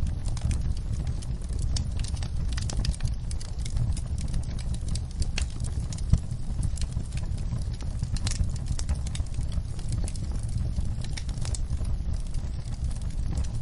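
Wood fire burning in a fireplace, with a steady low rumble of flames and irregular sharp crackles and pops, one louder pop about six seconds in.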